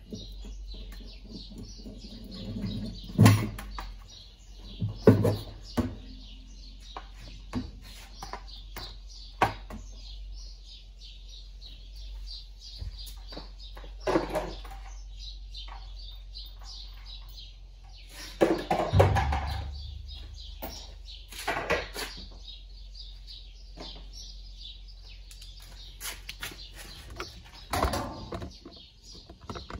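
Birds chirping steadily in the background, broken by a handful of sharp knocks and clatters of parts being handled, the loudest a few seconds in and about two-thirds of the way through.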